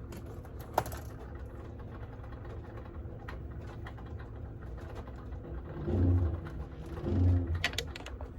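A steady low mechanical hum with a few faint clicks, and two short, louder low rumbles about six and seven seconds in.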